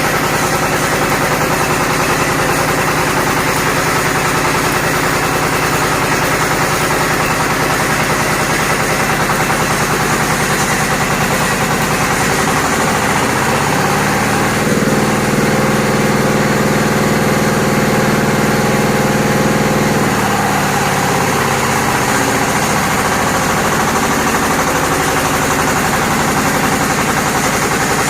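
Petrol engine of a welder generator running steadily; about halfway through its speed rises, holds a little higher and louder for about five seconds, then settles back to its earlier speed.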